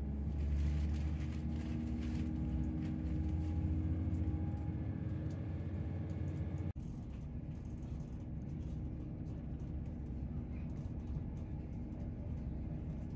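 Cabin noise inside a Chiltern Railways class 168 diesel multiple unit on the move: a steady low drone and rumble from the running gear and underfloor diesel engine. It cuts out for an instant about halfway through, then carries on with a lighter low drone.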